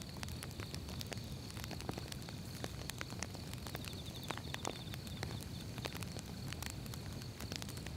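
Firewood burning in a fire, crackling with frequent irregular sharp pops over a steady low rumble of the flames. A faint steady high-pitched tone runs underneath.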